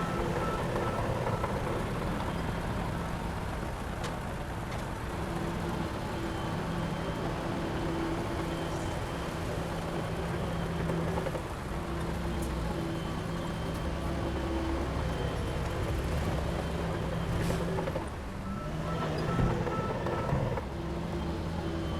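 Heavy diesel engine of construction machinery running steadily, with a brief dip and a few knocks about eighteen seconds in.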